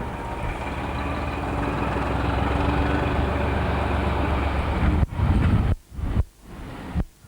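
Diesel locomotive engine running with a deep rumble that grows steadily louder. From about five seconds in the sound cuts out abruptly several times.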